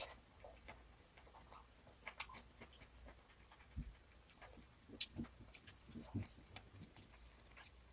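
Eating sounds: irregular soft clicks and taps of chewing and utensils, with a few faint low knocks.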